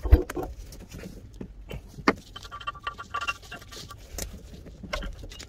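Scattered knocks, clicks and light metallic rattles from handling, the loudest right at the start and about two seconds in, with a brief thin chirping tone in the middle.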